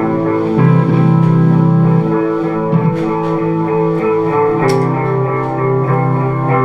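Live indie rock band playing an instrumental passage: electric guitars holding sustained chords over a bass guitar line, with a few light cymbal hits.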